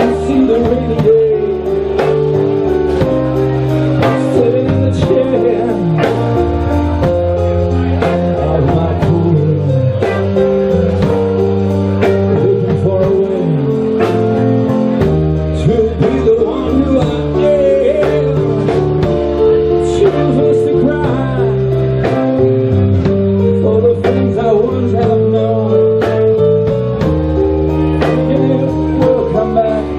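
A blues band playing live, with guitar to the fore over bass and drums, its notes bending in pitch.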